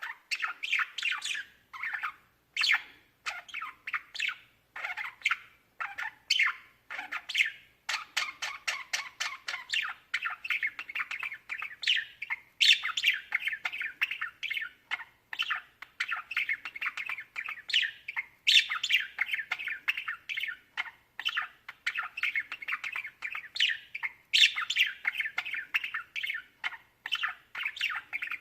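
Budgerigars chirping and chattering in a fast, continuous warble of short calls, with a few short pauses early on.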